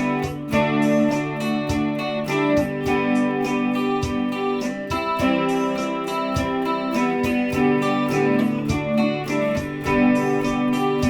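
Instrumental break of a song: strummed guitar over sustained accompaniment, with a steady beat of about four strokes a second and no singing.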